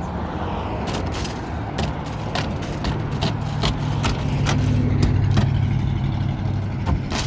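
A car engine running, its low hum growing stronger from about two seconds in, with irregular clicks and rattles throughout.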